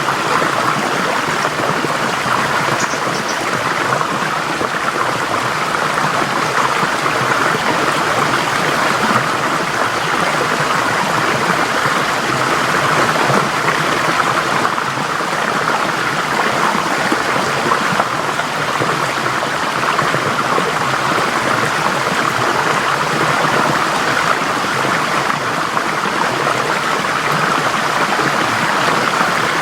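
Forest stream flowing over rocks: a steady, continuous rush of water.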